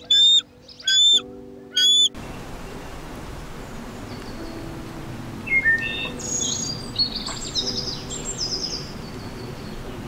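Birds calling: a loud, short, high call repeated three times about a second apart. Then an abrupt cut to a steady outdoor hiss, with a bird chirping and singing a run of quick notes in the second half.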